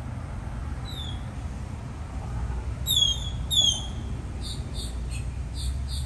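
Birds chirping: a short falling chirp, then two loud, sharp falling chirps about halfway through, then a quick run of short high chirps near the end. A low steady rumble runs underneath.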